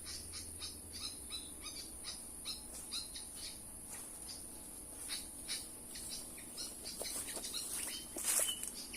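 Pied fantail chirping in short, quick notes repeated several times a second, over a steady high-pitched hiss, with a louder burst of noise near the end.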